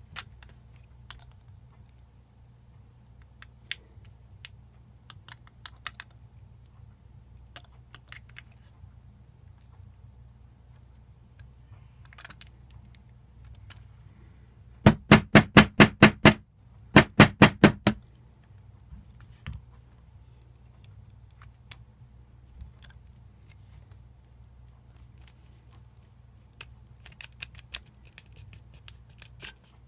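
Scattered clicks and clinks of small metal parts being handled while a lightsaber hilt is taken apart. About halfway through come two quick runs of loud sharp knocks, roughly six a second, with a short pause between them.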